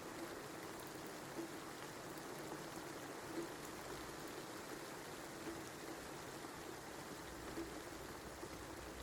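Rain falling steadily, an even hiss with occasional louder drops landing every second or so.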